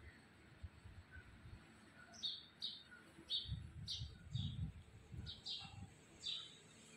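A small bird chirping: short, high chirps, about ten of them at uneven spacing, starting about two seconds in. There is some low rumbling under the chirps midway.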